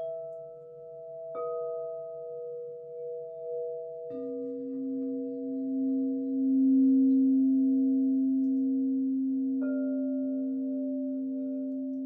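Singing bowls struck one after another, three strikes a few seconds apart, each ringing on in a long sustained tone that overlaps the others. A low wavering tone underneath stops about four seconds in, as a deeper bowl is struck that swells to be the loudest and slowly fades.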